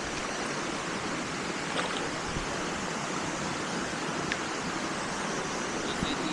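Waterfall and stream water rushing in a steady, even noise.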